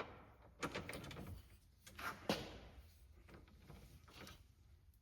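Faint, scattered clicks and knocks of a torque wrench and socket being handled and fitted onto a steering rack mounting bolt, a few separate taps with the sharpest a little past two seconds in.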